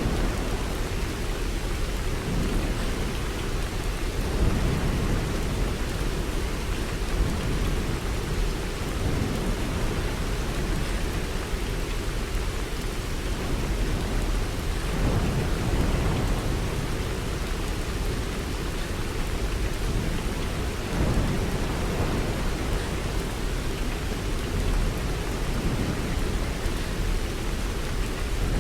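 Steady rain, with low rumbles of thunder swelling up a few times.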